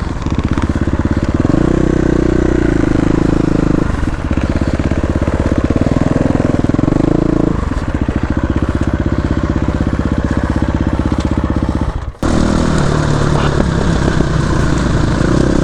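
Dirt bike engine running while being ridden, its pitch stepping up and down as the rider works the throttle and gears. It cuts out for an instant about twelve seconds in.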